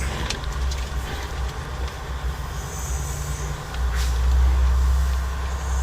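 Cab noise of a 2012 Freightliner Cascadia under way: the Detroit diesel engine's low rumble with road hiss, getting louder a little under four seconds in.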